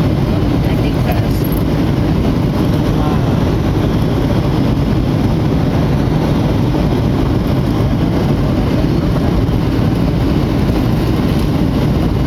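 Steady cabin noise inside a Boeing 737-800 airliner: a constant low rumble of engines and rushing air, unchanging throughout.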